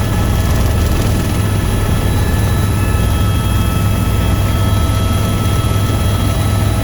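Helicopter in steady flight: a loud, constant low rotor thrum with several steady high turbine whine tones above it.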